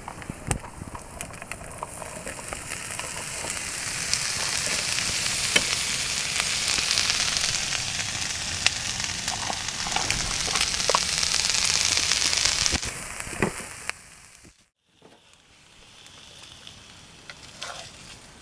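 Food sizzling over a campfire: a dense frying hiss with scattered pops, growing louder for several seconds, then cutting off abruptly about three quarters of the way through, after which a fainter sizzle goes on.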